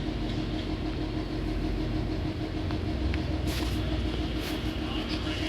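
A steady low rumble with a constant droning hum, like a vehicle or machine running.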